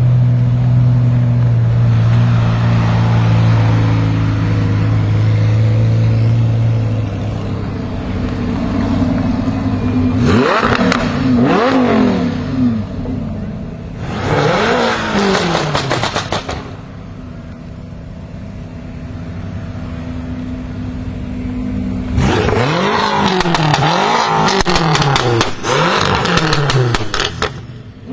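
BMW M5 F10's twin-turbo V8 through catless downpipes: a steady drone for several seconds, then quick revs that climb and fall in pitch. Near the end comes a run of repeated revs with sharp exhaust crackles and pops.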